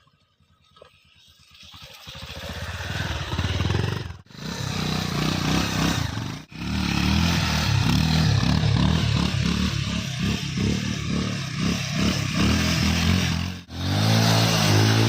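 Motorcycle engine running and revving, building up from quiet over the first two seconds, with its pitch wavering up and down. The sound drops out sharply and briefly three times.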